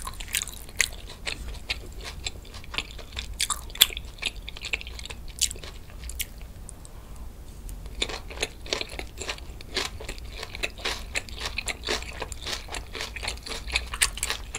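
Chewing of a mouthful of fresh spicy napa cabbage kimchi (geotjeori) with boiled pork, with many short, crisp crunches. The crunching thins out for a couple of seconds around the middle and grows busier again after about eight seconds.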